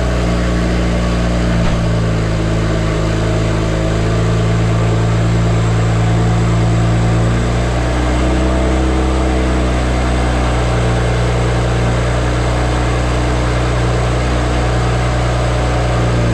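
BMW 335i's N54 twin-turbo straight-six idling steadily just after starting, running on freshly fitted ignition coils and spark plugs meant to cure a cylinder 6 misfire.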